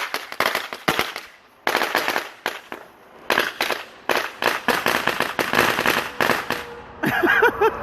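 A long string of firecrackers going off in rapid, irregular cracks, with brief lulls about one and a half and three seconds in. A voice starts near the end.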